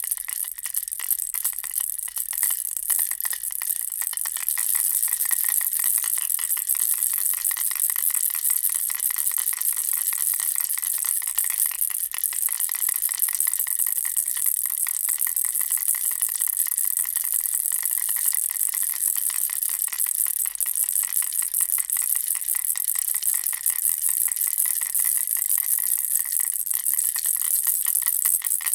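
Baby rattle toy shaped as a bear with a ball, shaken continuously: a steady, dense stream of small high-pitched rattling clicks with no pauses.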